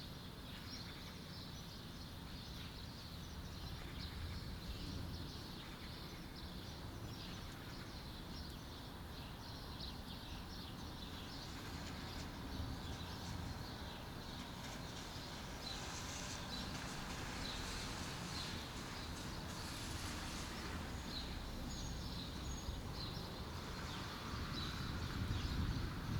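Faint outdoor ambience with small birds chirping now and then over a low, steady background rumble, growing slightly louder near the end.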